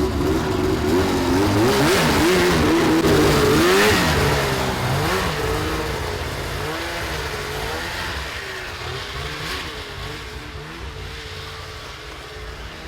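Engine revving hard, its pitch wavering up and down, loudest a few seconds in, then fading steadily as the vehicle pulls away into the distance.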